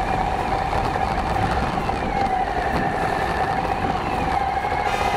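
Suzuki V-Strom 1000's V-twin engine running steadily while the motorcycle is ridden along a dirt track, with a steady drone and wind rumble on the bike-mounted microphone.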